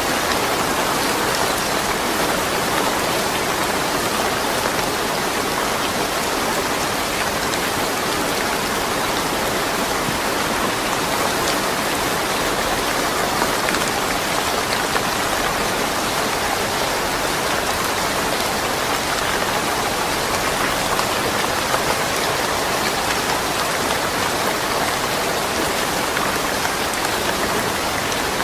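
Steady rain falling, with dense drops pattering on surfaces and no thunder.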